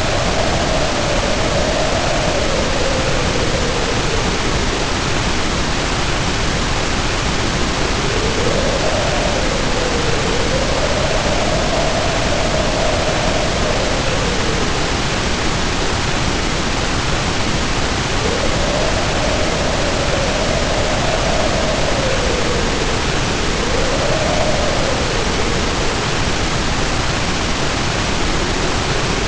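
Heavy rain pouring steadily under howling wind, the howl rising and falling in pitch in slow gusts every few seconds.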